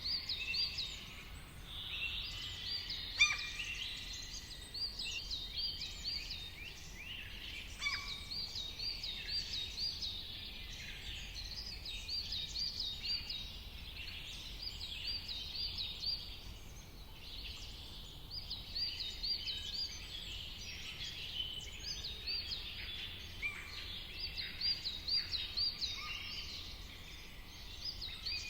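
A chorus of songbirds chirping and singing, with runs of short repeated notes that thin out briefly past the middle, over a steady low background rumble. A brief sharp sound stands out about three seconds in.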